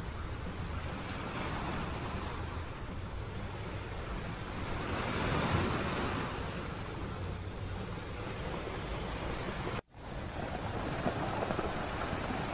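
Sea waves breaking and washing up a flat sandy beach, with wind rumbling on the microphone. One wave surges loudest about halfway through, and the sound cuts out for an instant near the end.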